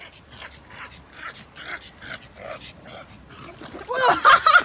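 A dog whimpering: a run of soft short sounds, then louder high-pitched whimpering yips near the end.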